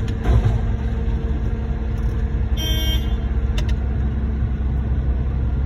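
Concrete mixer truck's diesel engine running steadily during a pour into a pump truck, with one short horn toot about two and a half seconds in.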